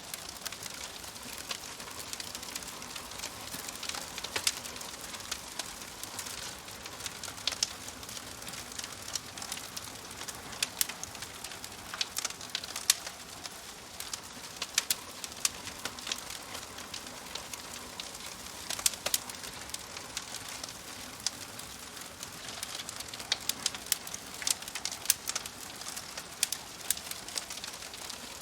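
Wood fire crackling in a wood-burning stove: irregular sharp pops and snaps over a steady soft hiss.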